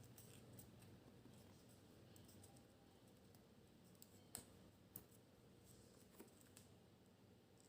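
Near silence, with a few faint ticks and clicks of a folded paper model being handled, two slightly sharper ones a little after four seconds in.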